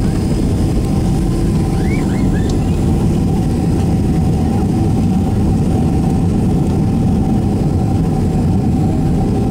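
Cabin noise inside a Boeing 767-300 rolling on the ground after landing: a steady low rumble from the engines and landing gear with a steady mid-pitched hum, and a few brief squeaks about two seconds in.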